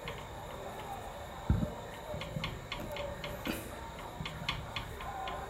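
Faint, irregular ticking clicks, several a second, with one dull thump about one and a half seconds in, over a faint steady high whine.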